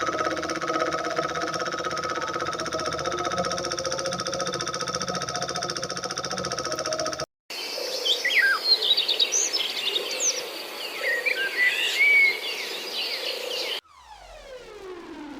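A miniature diesel engine runs steadily with a fast, even rattle. After an abrupt cut, birds chirp over a steady background hiss. Near the end a tone sweeps downward.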